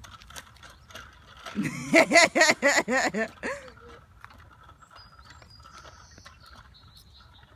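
Someone laughing in a quick run of about eight "ha" pulses, starting about one and a half seconds in and lasting about two seconds. Faint clicks come before it.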